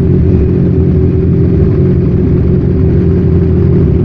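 Motorcycle engine running steadily under the rider, with wind and road noise; most likely the vlogger's Kawasaki Z1000 inline-four.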